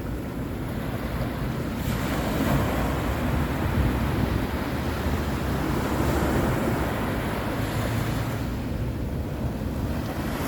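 Sea surf washing onto the shore, swelling about two seconds in and easing off near the end, with wind rumbling on the microphone.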